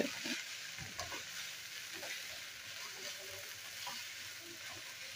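Diced chicken, onion and green capsicum frying with a steady sizzle in a non-stick pan while a spoon stirs them, with light, scattered scrapes and taps of the spoon against the pan.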